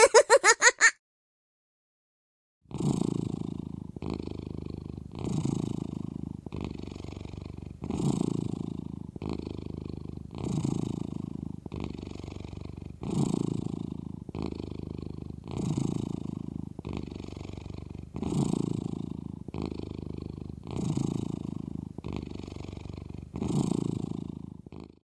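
Cat purring steadily, swelling with each breath about every two and a half seconds, starting about three seconds in. A short burst of giggling opens it.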